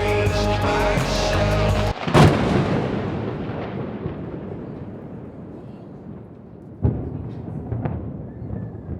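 Music cuts off about two seconds in and a loud thunderclap cracks, rumbling on and fading over several seconds. Two shorter, fainter cracks of thunder follow near the end.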